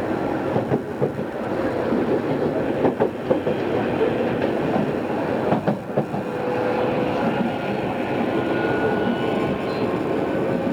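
Odakyu 2600 series electric train running, heard on board: a steady rumble of wheels on rail, with rail-joint clacks passing in small groups a few times. A faint whine comes in over the second half.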